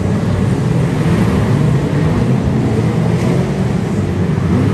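2-litre saloon stock car engines running as a pack races, several engine notes overlapping in a steady drone.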